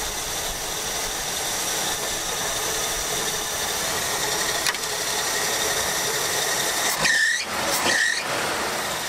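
AMC Concord engine running at idle with the hood up, a steady mechanical hum, with two short high squeals near the end.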